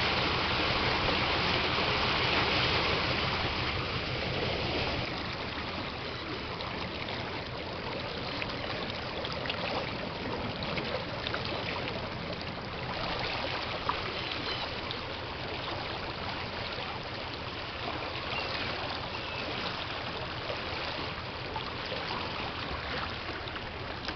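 Floodwater running in a steady rush. It is louder for about the first five seconds, then settles lower, with a few faint clicks.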